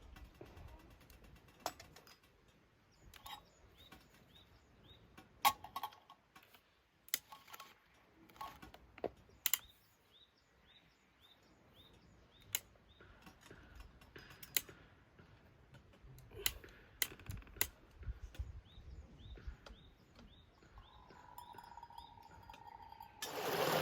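Scattered light clicks and taps of small objects being handled, with faint bird chirps behind. Near the end a steady tone sounds briefly, then a loud, even rushing noise begins just before the close.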